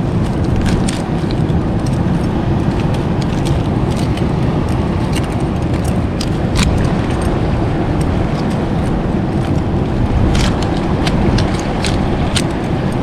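Wind buffeting the microphone at the shore as a loud, steady low rumble, with scattered sharp clicks of mussel shells being pried off the rocks and handled.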